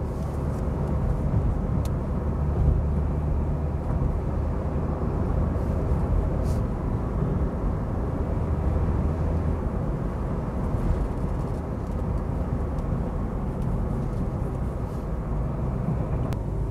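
Maruti Suzuki Baleno's 1.2-litre four-cylinder petrol engine running steadily under normal acceleration, heard from inside the cabin together with tyre and road noise.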